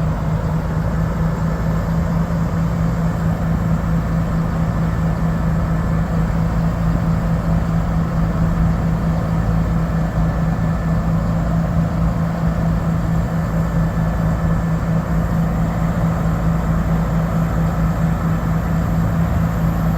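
Cummins 6.7L diesel engine of a Ford F750 bucket truck running steadily at idle, a constant low hum with no change in speed.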